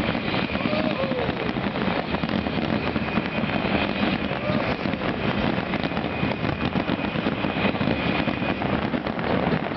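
Fireworks crackling and popping in quick succession over the steady noise of a large crowd.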